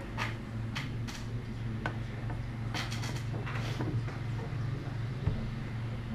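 Boat hull being waxed: short swishing rubbing strokes, a few in quick succession, over a steady low hum, with a small thump near the end.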